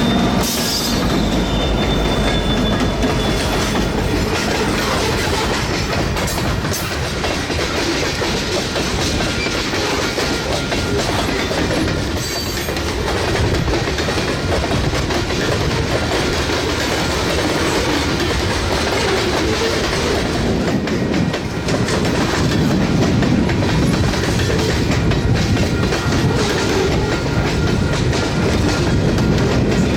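A freight train rolling steadily past at track side, its cars clattering along for the whole stretch. Two thin tones, the tail of a horn, fade out in the first few seconds.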